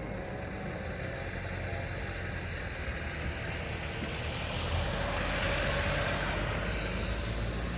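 City road traffic: a steady rumble and hiss of engines and tyres, with one vehicle passing close and swelling louder about five seconds in before fading.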